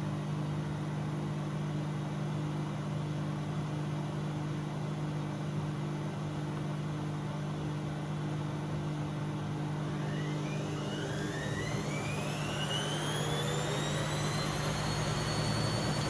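Bauknecht WA Aquaton 1400 washing machine running with a steady hum, then about ten seconds in its motor starts a whine that rises in pitch and levels off near the end as the drum speeds up.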